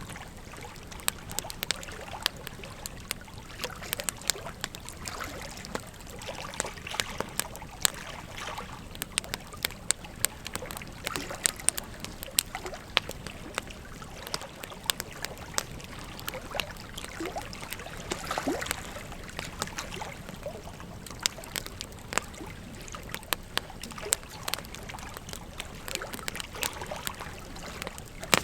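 Wood fire crackling, with frequent irregular sharp pops, over the steady rush of a flowing river.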